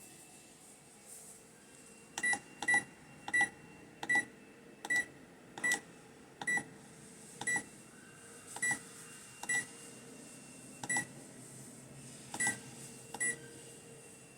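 Brastemp washing machine's electronic control panel beeping as its buttons are pressed: thirteen short high beeps at uneven intervals, starting about two seconds in, over a faint steady hum.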